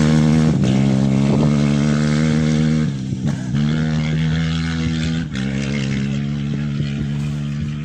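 Engine of an off-road rally vehicle running at steady high revs, broken briefly twice, about three and five seconds in.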